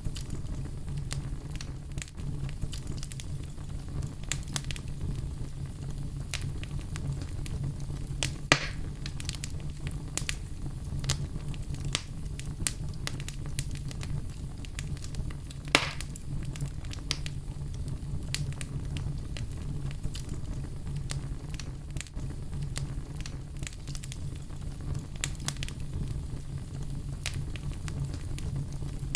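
Wood fire in a fireplace burning with a steady low roar, many small crackles throughout and two louder pops, about eight and sixteen seconds in.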